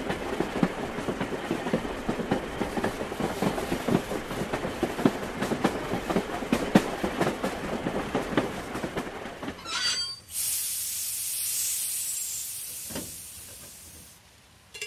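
Train sound effect: wagon wheels clattering over the rails in a dense run of rapid clicks. Just before ten seconds in there is a brief high squeal, then the clatter stops and a loud hiss takes over, fading away over about four seconds.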